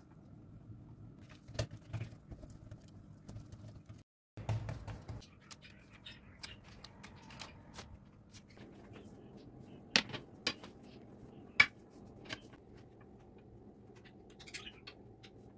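Scattered light clicks and knocks of household objects being handled, over a faint low hum. The sound drops out completely for a moment about four seconds in, and the sharpest clicks come about ten and eleven and a half seconds in.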